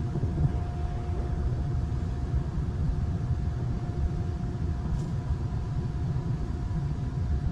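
Steady low rumble of a ferry's engines heard on board, with a faint steady hum above it.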